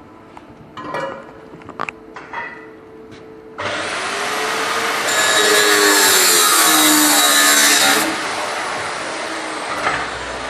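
Power tool running under load, its motor tone dipping and rising as it works, starting about three and a half seconds in and cutting off abruptly near the end; a few light knocks come before it.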